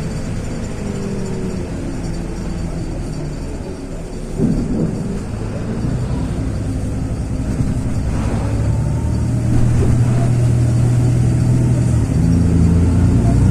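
LiAZ 6213.22 articulated city bus under way, its diesel engine running with a pitch that steps and climbs as the bus gathers speed. There is a brief clatter about four and a half seconds in, and it gets louder from about ten seconds in.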